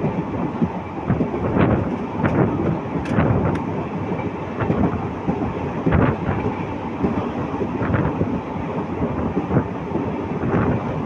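Indian Railways express train passing close by at speed: a steady heavy rumble with irregular sharp clanks of the wheels over the rail joints.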